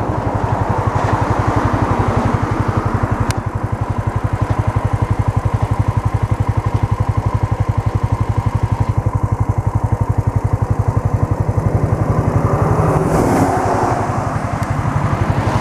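Motorcycle engine idling, a steady rapid pulse of about ten beats a second, with a brief swell of noise about two seconds before the end.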